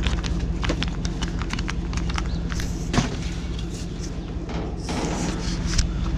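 Clattering and knocking of discarded items being handled and moved, with one sharp knock about three seconds in and a rustling scrape near five seconds, over a steady low engine hum.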